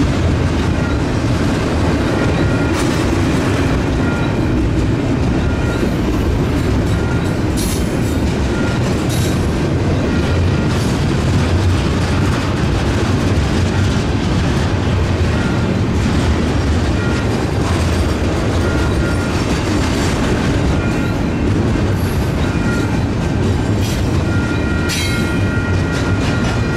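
Double-stack intermodal container train passing close by on its well cars: a steady heavy rumble and rattle of steel wheels on rail, with a faint high squeal coming and going and a few short sharp metallic screeches about a third of the way in and near the end.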